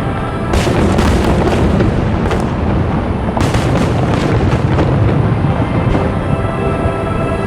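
Aerial fireworks shells bursting with a continuous low booming, and two spells of dense crackling, one starting about half a second in and another just past the middle. Music with long held notes plays underneath.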